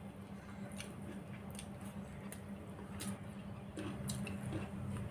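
A person eating rice with fried pointed gourd: quiet chewing with scattered soft mouth clicks and squishes, about one or two a second.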